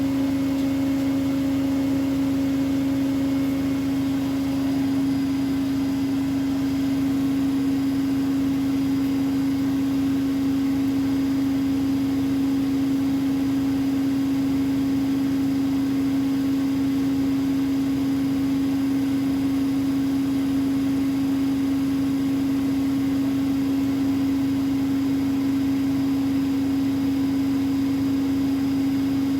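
Bosch Maxx WFL 248Y washing machine running early in its wash cycle: a loud, steady hum over an even hiss, with no drum-turning rhythm.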